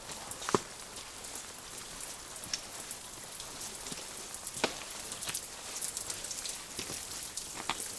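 Rain falling with a steady hiss, and a few separate louder drops striking close by, the sharpest about half a second in and again just before five seconds in.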